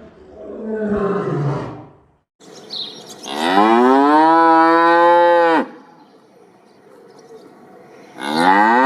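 Cow mooing: a shorter, lower call first, then a long moo of about three seconds that rises at the start, holds steady and stops abruptly, and another moo begins near the end.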